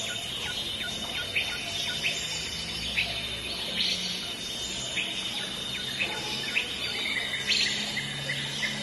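Small birds chirping: short, sharp chirps repeating every half second or so over a steady high tone.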